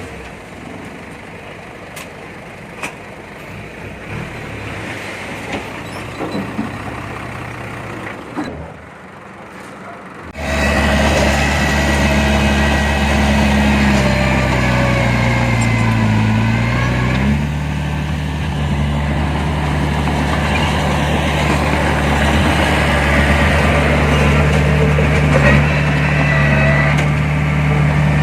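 Heavy diesel engine of earthmoving machinery, heard faintly at first with a few short knocks, then suddenly much louder about ten seconds in. Its pitch dips and shifts briefly a few seconds later, then it runs steadily.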